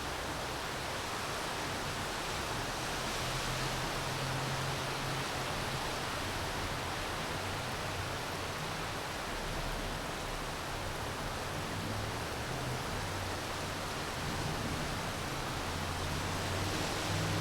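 Steady rain falling, an even hiss with no separate drops standing out. A low hum comes and goes underneath and is loudest near the end.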